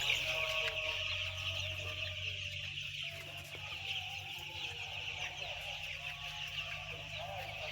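A large flock of white chicks peeping continuously, a dense chorus of many high chirps overlapping without pause, over a steady low hum.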